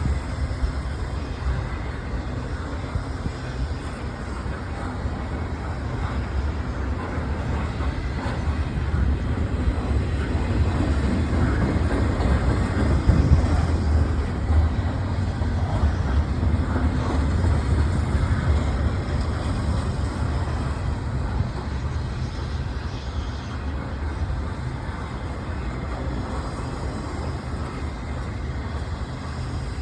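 Cars of a long BNSF intermodal train rolling past, a steady low rumble of steel wheels on rail that swells a little midway and then eases.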